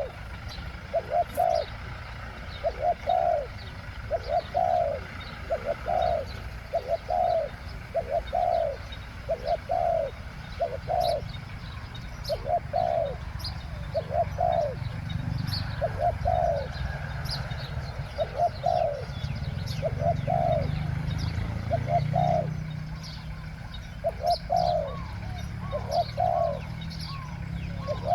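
Spotted doves cooing, short low notes repeated in pairs again and again, with faint high chirps of other small birds over them.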